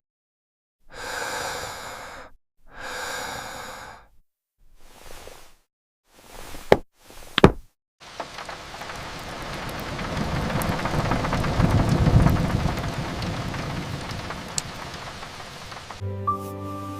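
Two soft breathy rushes and two sharp knocks, then a long rush of noise like rain that swells to a peak with a low rumble and fades, before gentle music comes in at the end.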